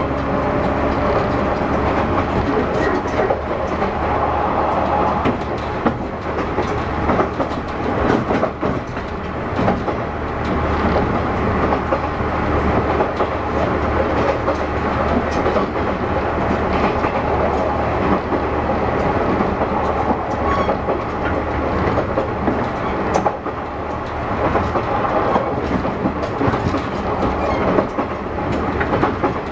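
Inside the motor car of a JR West 117 series (300 subseries) electric train running at speed: wheels clatter over rail joints above the steady rumble of the bogies and traction motors. A steady motor hum can be heard in the first few seconds and then fades.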